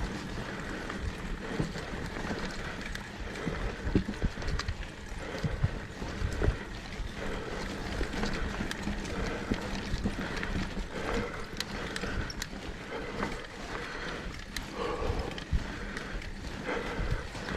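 Mountain bike riding down a dirt trail: steady tyre noise with the bike clattering and rattling over bumps, and sharper knocks about four and six and a half seconds in.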